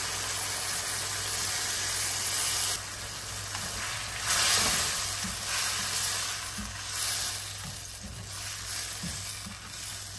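Pork, chicken and shiitake mushrooms sizzling in a wok with soy sauce just poured in, while a spatula stirs and scrapes through them. The sizzle swells loudest about four seconds in and fades toward the end.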